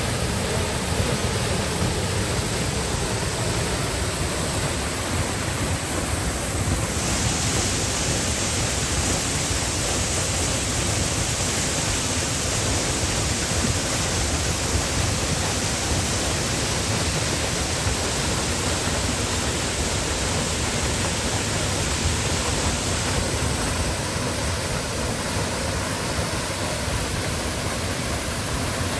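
Waterfall: a steady rush of falling water. Its high hiss turns abruptly brighter about a quarter of the way in and drops back near the end.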